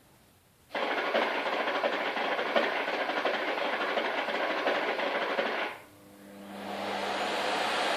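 Bosch Roxx'x vacuum cleaner switching on abruptly and running with a steady rushing sound. About five seconds later it cuts out, then its motor runs back up gradually with a low hum.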